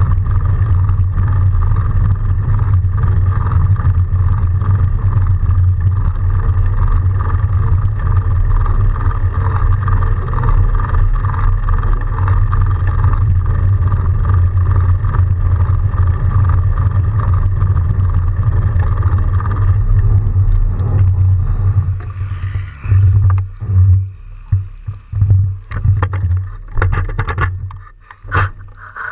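Steady, loud riding noise from a fat bike in snow: a low rumble of wind and tyres with a steady mid-pitched hum on top. About 22 seconds in it breaks up into irregular knocks and scrapes as the steady rumble stops.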